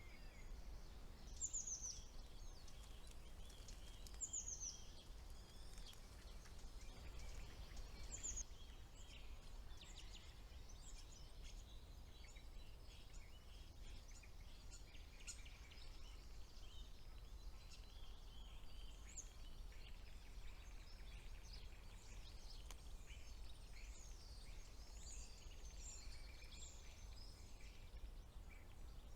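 Faint mixed songbird chorus in a spring woodland: many short, high chirps and trills, with a few louder down-slurred notes in the first eight seconds. A steady low hum runs underneath.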